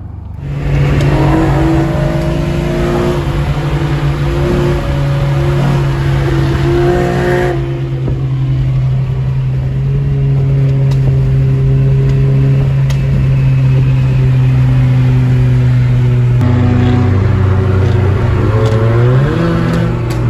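Car engine pulling hard at high revs, a loud steady drone. Its pitch drops about three-quarters through, then climbs and falls again near the end.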